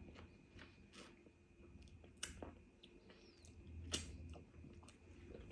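Faint mouth-close chewing of food, with scattered soft crunches and mouth clicks, the loudest about two and four seconds in.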